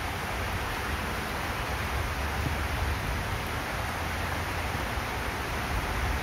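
Steady rain falling on a railway platform and tracks, an even hiss, with a low rumble underneath.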